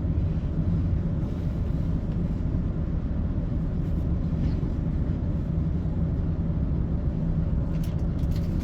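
Class 170 Turbostar diesel multiple unit under way, heard from inside the carriage: a steady low rumble from its underfloor diesel engines and wheels on the rails, with a constant drone.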